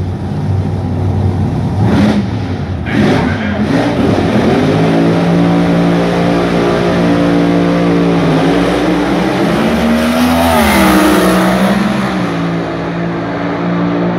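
Engine running steadily, its pitch rising and falling briefly near two-thirds of the way through, after a couple of sharp knocks early on.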